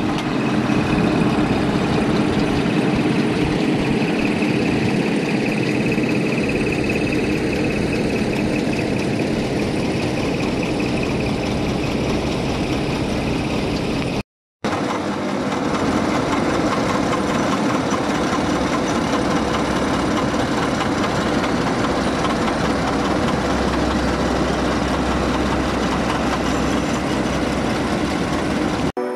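Steady engine and machinery noise, of the kind heavy road-building vehicles make, in two stretches split by a short silent cut about halfway.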